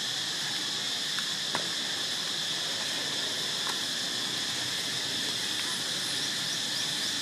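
Insects droning steadily, a high-pitched shrill chorus that holds even throughout. A few faint ticks sound about a second in and again near the middle.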